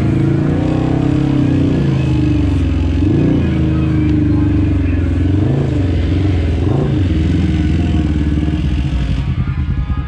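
Off-road vehicle engine running hard, revving up and down several times, then dropping to a lower, pulsing idle near the end.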